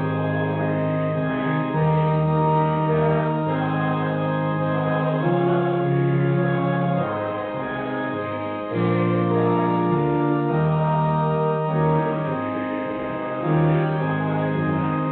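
Church organ playing a slow piece in sustained chords, the chord changing every second or two.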